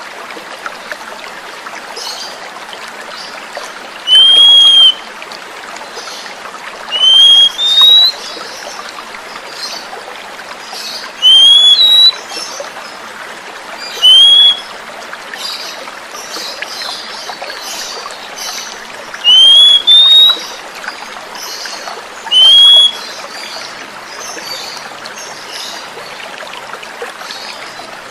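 Oriental magpie-robin (kacer) giving loud, short whistled notes that arch up and fall, about nine times, some in quick pairs, over a steady trickle of running water. It is a lure recording meant to draw a young bird into song.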